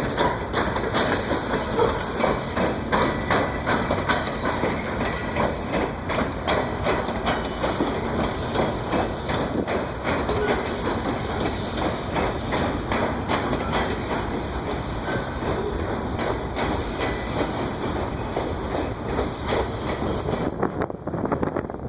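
Freight train of loaded coal cars rolling past at close range: a steady rumble of steel wheels on rail with a rapid run of clicks over the rail joints, easing slightly near the end.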